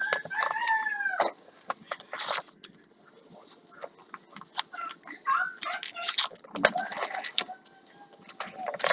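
Packaging and paper being handled: a run of sharp crinkles and rustles. Short pitched calls that bend in pitch come at intervals under them.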